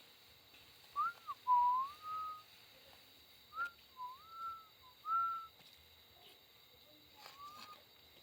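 A person whistling a short tune in clear, pure notes, with several rising and bending slides in three short phrases and a pause before a last brief rising note near the end.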